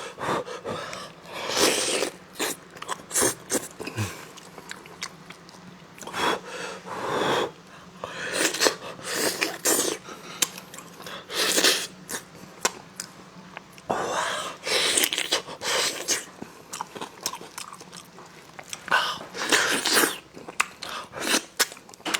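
A person eating spicy braised beef close to the microphone: chewing and biting, with a noisy burst every few seconds.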